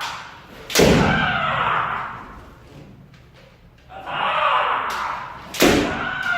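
Kendo strikes: two sharp impacts of a bamboo shinai on armour with a foot stamp on the wooden floor, about a second in and near the end, each with a loud drawn-out kiai shout.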